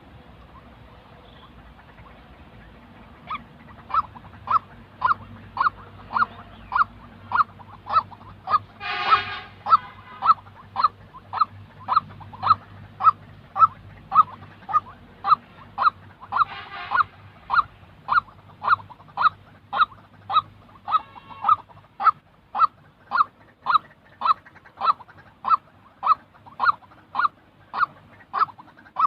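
White-breasted waterhen calling: a monotonous run of short, identical honking notes, nearly two a second, starting a few seconds in and keeping on steadily, with a few harsher, rougher calls mixed in.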